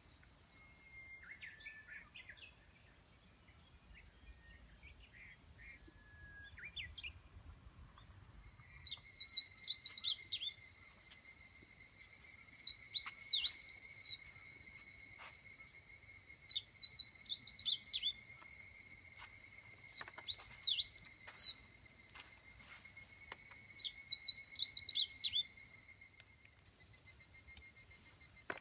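Birds singing: faint scattered chirps at first, then from about nine seconds in loud clusters of quick high chirps every three to four seconds, over a steady thin high-pitched tone.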